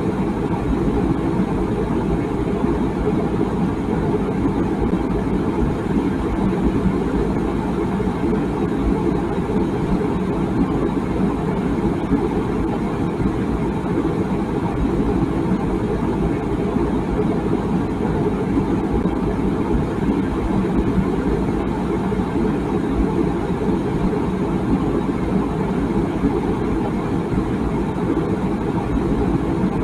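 Water boiling in a tea kettle: a steady, low rumbling bubble with no whistle.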